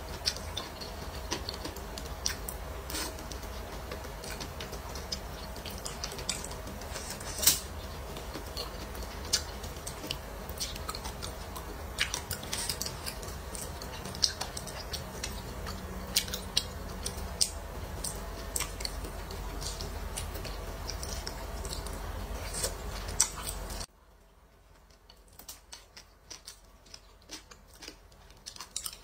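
Close-miked chewing and wet mouth sounds of someone eating braised eggplant, with scattered sharp clicks at irregular intervals over a steady low hum. The hum cuts out near the end, leaving fainter, sparser clicks.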